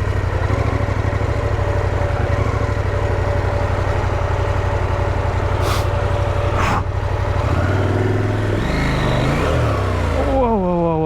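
Motorcycle engine running steadily while the bike is worked out of a muddy ditch, with two sharp knocks midway. About eight seconds in the engine note shifts, and near the end the pitch falls away.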